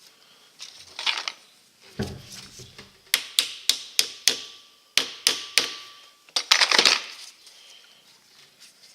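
Metal-on-metal hammer taps driving the roll pin out of a truck air valve's switch handle. A few scattered knocks come first, then a run of about ten sharp taps, roughly three a second, with a faint metallic ring.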